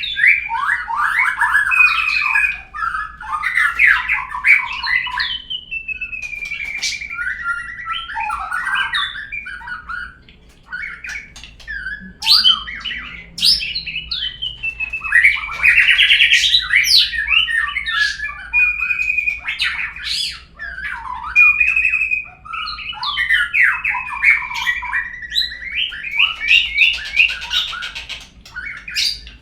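Murai (Copsychus) song used as a lure: a continuous, varied stream of loud whistles, rapid trills and harsh squawky notes, pausing briefly around the middle. It is played to set caged birds singing.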